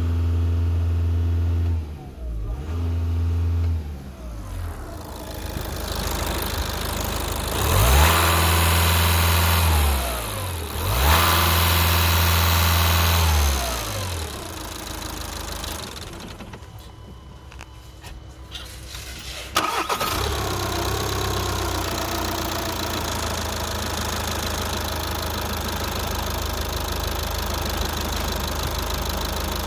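VW Passat B6's 2.0 TDI CBAB four-cylinder diesel, at 510,000 km, being revved four times, each rev rising, held briefly and falling back. It then runs more quietly until a sharp knock about twenty seconds in, after which it runs steadily.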